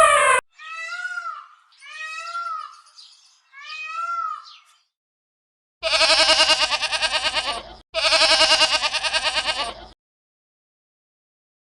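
Bleating: three short calls that rise and fall in pitch, then two long loud bleats of about two seconds each with a fast quaver. A steady held tone cuts off just after the start.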